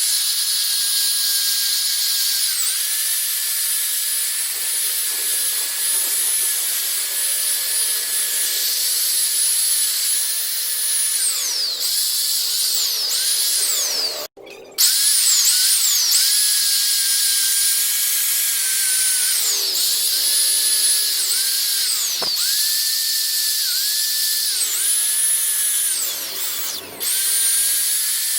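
Electric power tool's motor whining steadily while buffing a motorcycle exhaust pipe, its pitch dipping briefly again and again. It stops for a moment about halfway through.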